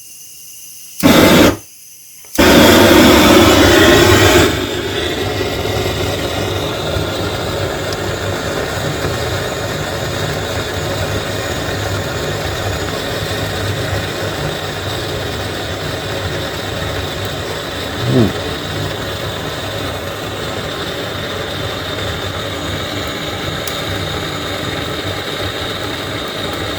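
Wood fire being lit in a fireplace: a short loud burst about a second in, a louder rushing noise for about two seconds, then a steady rushing noise as the firewood catches.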